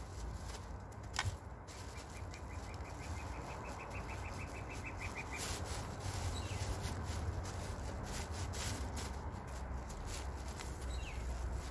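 A small bird's trill, a fast run of about twenty repeated high notes starting about two seconds in and lasting over three seconds. Under it, intermittent rustling and crackling of a black plastic grow bag and soil being handled, over a steady low rumble.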